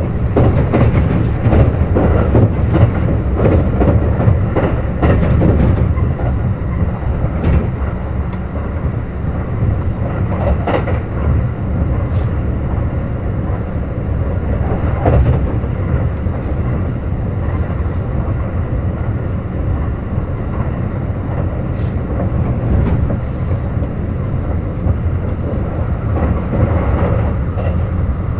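Kintetsu Urban Liner Plus limited-express electric train running at speed: a steady low rumble with sharp wheel clicks over rail joints coming at uneven intervals.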